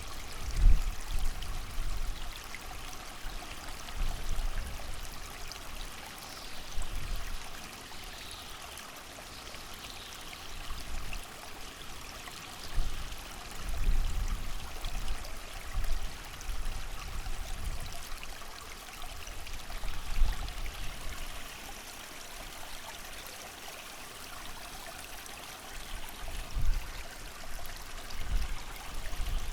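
Small creek running steadily, with low gusts of wind rumbling in and out every few seconds.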